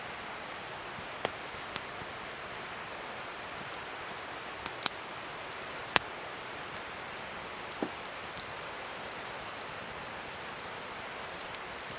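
Wood fire burning with a steady hiss and scattered sharp crackles and pops, the loudest about five and six seconds in.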